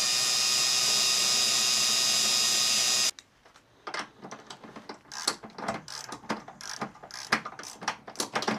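Electric drill spinning an attachment steadily against the rusted connections of a starter solenoid, scraping off the rust, and cutting off about three seconds in. After it stops come irregular clicks and short scrapes of metal parts being handled.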